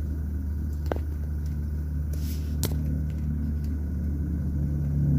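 Steady low hum of a Toyota Innova's 2.4-litre 2GD-FTV turbodiesel idling, heard from inside the cabin. Two light clicks come about a second in and at just under three seconds.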